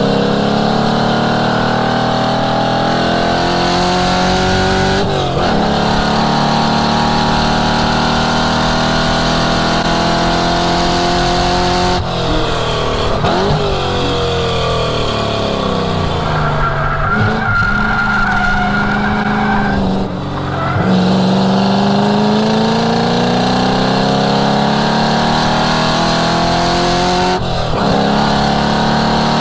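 A 1967 Mustang's V8 driven hard on track. The engine pitch climbs under full throttle and drops sharply at upshifts about five, twelve, twenty and twenty-seven seconds in. In the middle the revs fall away for several seconds, with a steady tyre squeal through a corner.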